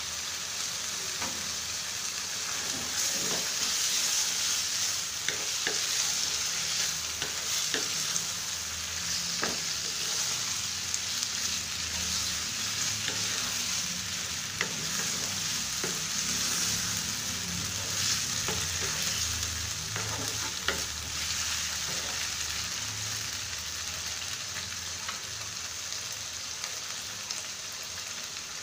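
Beef liver pieces sizzling in oil with onions and spice paste in a non-stick wok, as a wooden spatula stirs them, scraping and knocking against the pan now and then.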